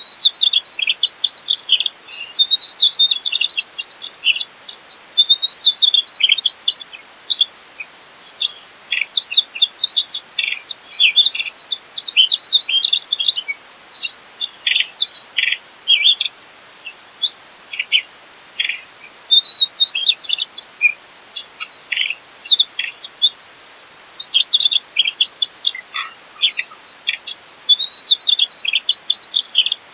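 Mugimaki flycatcher singing steadily: a rapid run of high, varied chirps and short trills with only brief pauses.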